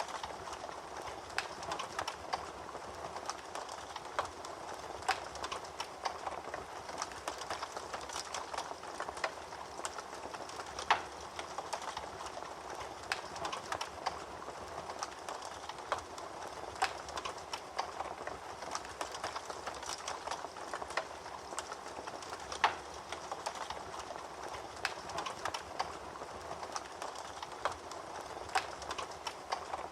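Fire crackling in a fireplace: a steady soft hiss with irregular sharp pops and snaps, a few louder ones now and then.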